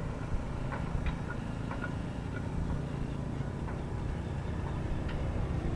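Truck engine running with a steady low rumble, scattered light clicks and rattles over it.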